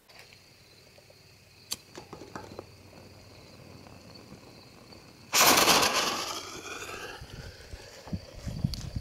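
A 60 g canister shell firework lifting off from its mortar tube: a sudden loud bang about five seconds in, fading over a couple of seconds. A few duller thumps follow near the end.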